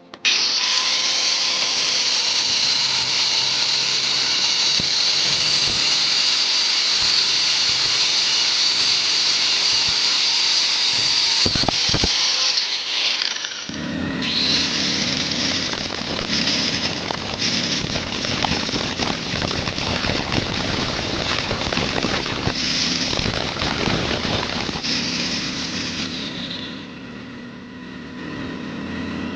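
Power tool running under load, working metal parts; the sound starts abruptly, changes about halfway through as a heavier, rougher sound joins in, and eases off near the end.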